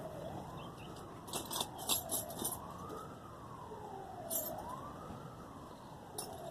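Emergency-vehicle siren wailing, its single tone slowly rising and falling about every two and a half seconds. A cluster of sharp clicks comes about one and a half to two and a half seconds in, and another single click about four and a half seconds in.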